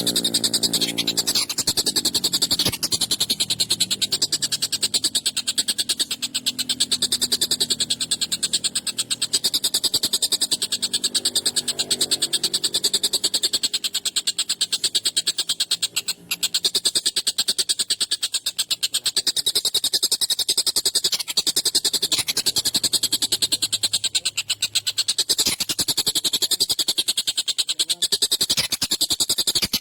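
Tengkek buto kingfisher calling in a long, sharp, harsh rapid-fire chatter that runs on almost without pause, breaking off only briefly about halfway through.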